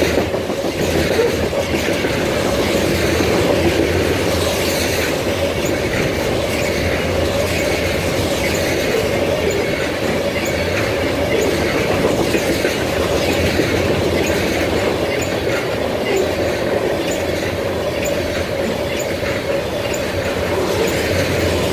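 Tank cars of a freight train rolling steadily past: continuous wheel-on-rail noise with clickety-clack over the rail joints and a steady wheel squeal.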